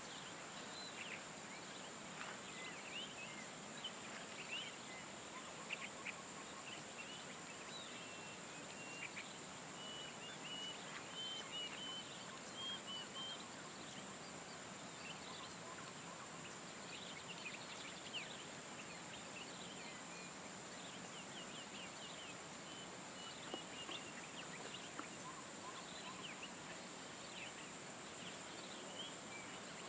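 Outdoor nature ambience: many birds giving short chirps and runs of repeated notes over a steady high-pitched insect drone.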